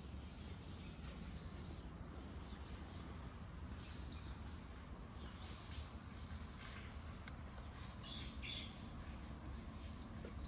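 Faint, repeated short bird chirps over a steady low rumble of outdoor background noise, with a brief flurry of chirps about seven to nine seconds in.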